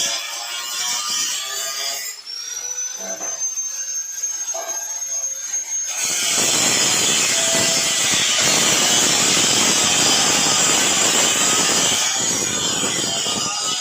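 Power tool running: a high motor whine rises and holds steady, then gives way about six seconds in to a loud, harsh, steady cutting noise.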